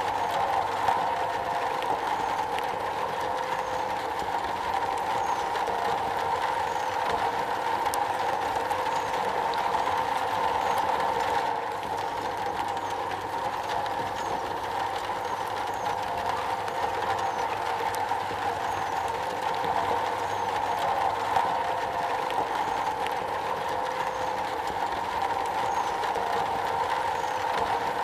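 Rain falling on a metal roof: a steady, dense patter of drops.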